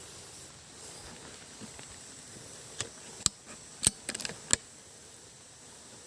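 A quick cluster of sharp clicks and snaps, half a dozen or so in under two seconds starting about three seconds in, over a steady background hiss.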